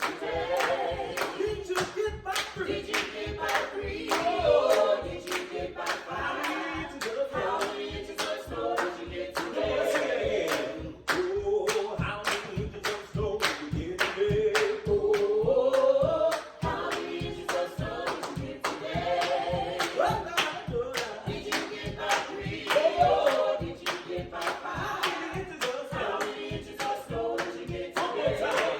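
A group of voices singing together in harmony, a cappella, over a steady percussive beat of about three sharp hits a second.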